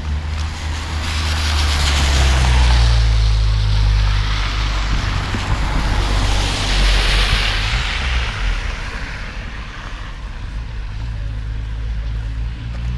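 Road traffic passing: a low engine rumble throughout, with tyre hiss swelling and fading twice as two vehicles go by.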